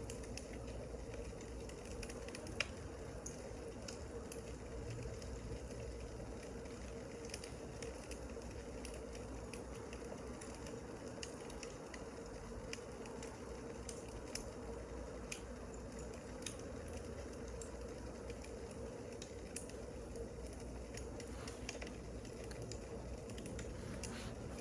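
Wood fire crackling: irregular small pops and snaps over a steady low rumble, one sharper pop a couple of seconds in.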